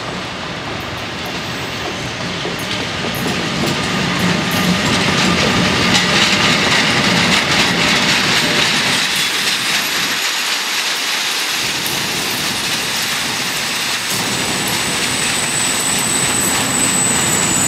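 Freight train of open wagons hauled by an E483 electric locomotive passing close by, wheels clattering over rail joints. It grows louder as the wagons draw level, and a high wheel squeal comes in near the end.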